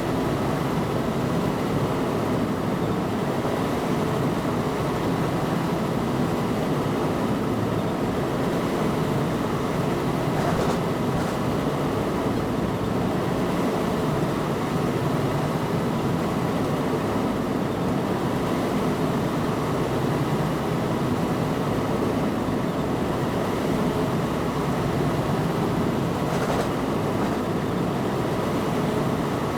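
Train running, heard from inside the driver's cab: a steady, unbroken rumble of the train and its wheels on the track.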